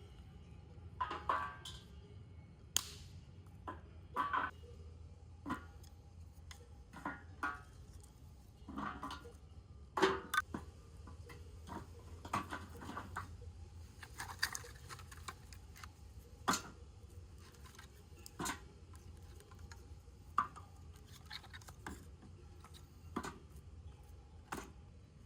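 Irregular light clicks, taps and knocks, a few every second or two, over a faint low hum.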